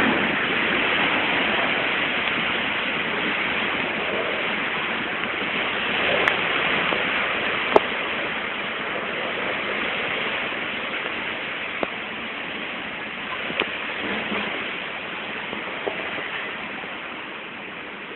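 Heavy rain pouring in a steady rush, with a few sharp taps of drops striking something; the downpour slowly grows quieter.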